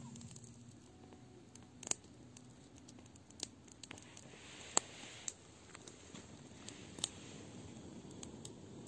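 Wood campfire crackling faintly, with a few sharp pops at irregular intervals.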